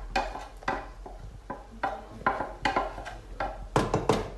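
Cooking utensils knocking and clattering against a pot, an irregular run of sharp knocks about three a second.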